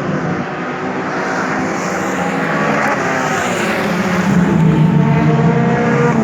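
Several race car engines running hard as a field of cars laps the track. The engines grow louder in the second half as cars come past.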